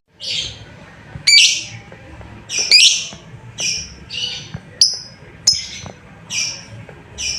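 Lovebird giving a run of short, harsh, high shrieking calls, about ten in quick succession at an uneven pace. These are the contact calls used as a lure to set other lovebirds calling back.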